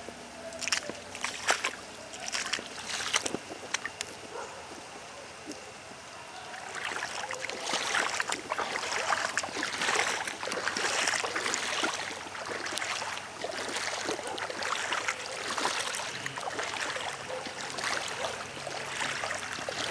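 Floodwater splashing and sloshing: scattered splashes at first, then a dense, continuous run of splashing from about seven seconds in.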